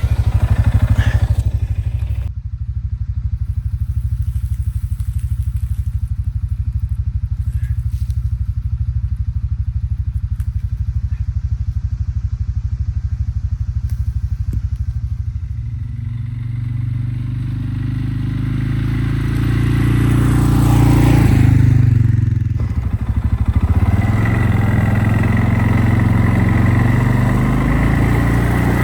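CFMOTO ATV engine running under way, building up and revving higher for several seconds past the middle, easing off briefly, then running on steadily.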